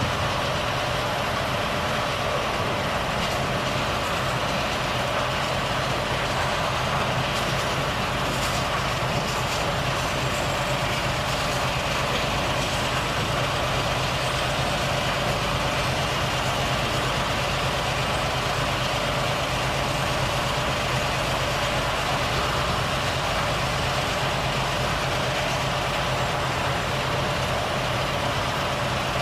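Volvo FH truck's diesel engine running steadily with an even, unchanging drone.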